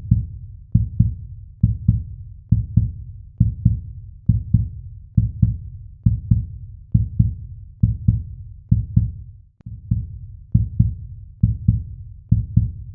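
A slow, steady drum beat: pairs of low thumps repeating a little under once a second.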